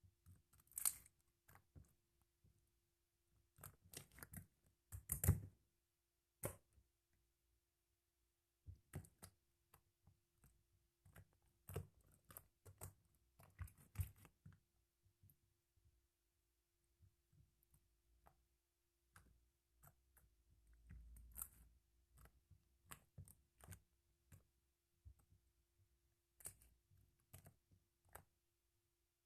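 Faint, irregular short clicks and crackles, coming singly and in small clusters, over a faint steady hum.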